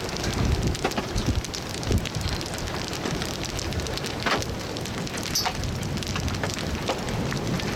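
Storm wind gusting over the microphone with a low rumble, while raindrops strike close by as many scattered sharp ticks.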